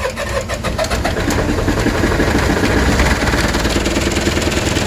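MEP-802A diesel generator engine running just after a cold start in sub-zero cold, with a rapid, even diesel knock. Its oil is cold and the oil pressure is still coming up.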